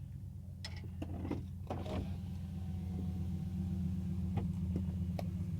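Car engine and road noise heard from inside the cabin: a steady low drone that grows louder after about two seconds, with a few scattered clicks and knocks.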